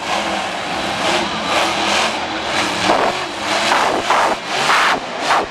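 Monster truck engine revving hard in repeated rising and falling surges, loud and distorted through a small camera's overloaded microphone.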